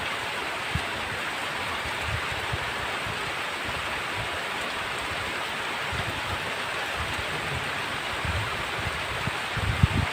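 Heavy rain falling, a steady even hiss, with a few brief low thumps now and then, the loudest near the end.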